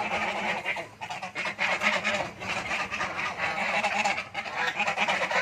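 Geese honking and chattering, many calls overlapping without a break, with a short lull about a second in.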